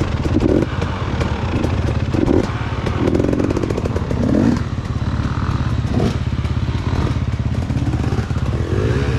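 Dirt bike engine idling steadily, with another dirt bike revving in several short bursts as its rider struggles to get up a steep climb.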